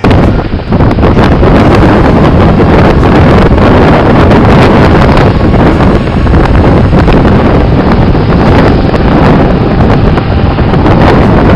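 Strong storm wind buffeting the microphone, very loud and rough, with the sea's surf beneath it.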